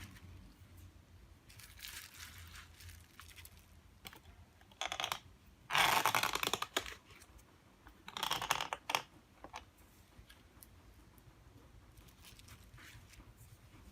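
Thin plastic crinkling and being peeled or torn in several short bursts, loudest about six seconds in.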